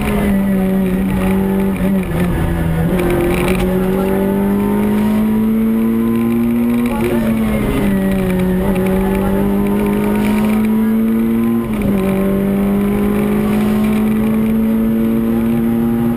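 Peugeot 106 Rallye rally car's four-cylinder petrol engine pulling hard, heard from inside the cabin. Its pitch climbs slowly and drops sharply three times as gears change.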